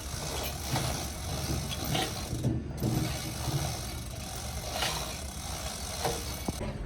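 An engine running steadily with a low rumble, with scattered short knocks and clicks over it.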